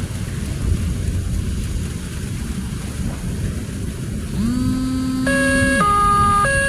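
Heavy thunderstorm rain and wind hissing steadily. About four seconds in a low tone rises and holds, and near the end a siren starts, stepping back and forth between two pitches.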